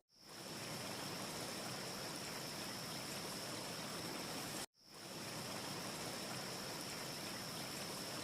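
Steady, even rushing hiss of a looped wind ambience, with a faint high whistle held under it. The loop cuts out abruptly at the start and again about four and a half seconds in, each time fading back up over about half a second. No fire crackle can be picked out.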